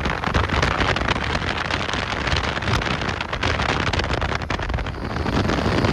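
Passenger train running at speed, heard as a steady rush of wind and rolling noise with irregular wheel clicks on the rails, the airstream buffeting the microphone.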